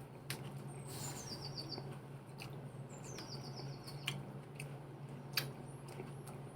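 A small bird chirping twice about two seconds apart, each call a short downward slide into a quick run of high notes, over a steady low hum with scattered sharp clicks.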